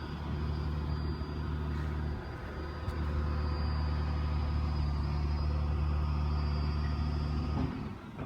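A motor vehicle's engine running steadily, a low drone with a faint high whine above it, which stops abruptly near the end.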